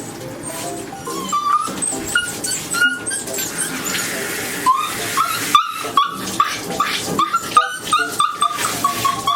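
Shiba Inu whining in many short, high-pitched cries, one after another, while being bathed, with background music faint at the start.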